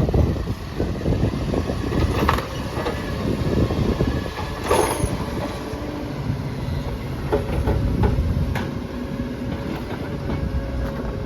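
Recycling garbage truck working: a low engine rumble with several clunks and knocks, the loudest about two and five seconds in, and a steady whine in the second half.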